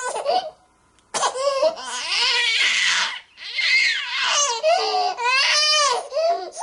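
A baby crying in repeated wailing cries. There is a short breath pause about half a second in, and the cry turns harsh and hoarse around the middle before the wails resume.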